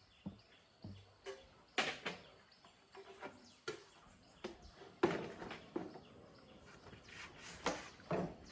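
Irregular short knocks and clicks, a few a second, some ringing briefly, the sharpest about two seconds in and again about five seconds in.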